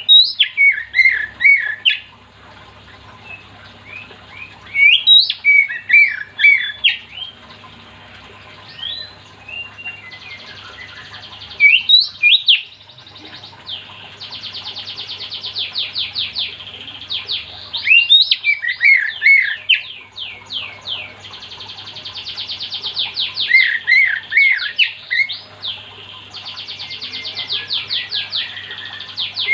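Oriental magpie-robin (kacer) singing loudly: short whistled phrases of sliding, bending notes alternating with long, fast trills of rapidly repeated notes.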